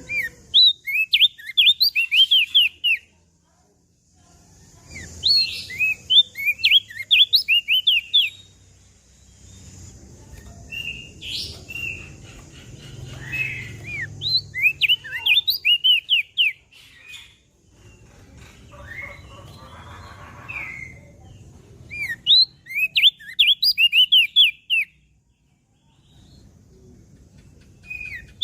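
Crested white-eye (opior jambul) singing: bursts of rapid, high, down-slurred whistled notes, each phrase lasting two to three seconds, with short pauses between them. A faint low rumble lies underneath in the middle.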